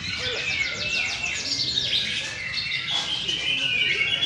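White-rumped shamas singing: varied, overlapping whistled phrases, with a quick run of falling notes from about half a second to two seconds in.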